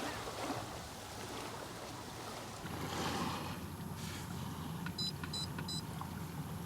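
A steady low mechanical rumble with a hiss that grows a little stronger about three seconds in. Near the end come three short, high electronic beeps in quick succession.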